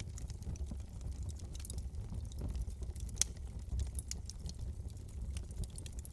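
Wood fire crackling in a fireplace: irregular sharp pops and snaps over a steady low rumble of the flames, with one louder crack about three seconds in.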